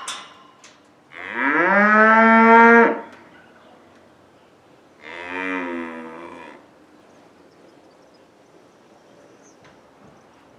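Cattle mooing twice: a long, loud bawl about a second in that rises in pitch and then holds steady, and a shorter, quieter moo about five seconds in.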